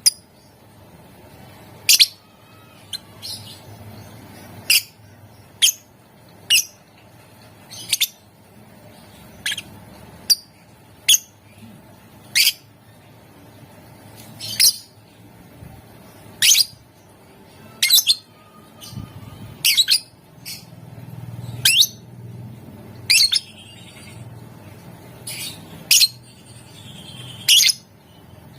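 Lovebird giving short, sharp, high-pitched squawking calls, one every second or two, with a faint low hum behind.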